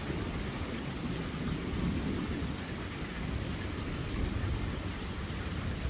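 Steady rain falling, with long, low rolling thunder rumbling underneath, still going strongly enough to shake the ground.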